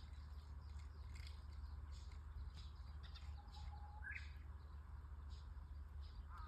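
Birds chirping faintly, many short quick chirps throughout, with a brief rising call about four seconds in, over a steady low hum.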